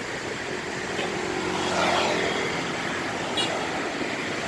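Bus engines running amid steady traffic noise, swelling a little around the middle, with a brief high-pitched squeak near the end.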